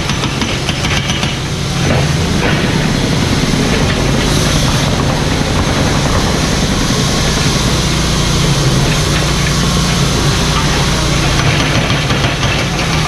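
Mini excavator's diesel engine running steadily, getting a little louder about two seconds in.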